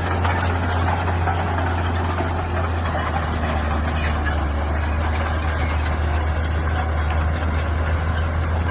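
Heavy diesel engine of earth-moving machinery running steadily, with a strong deep drone.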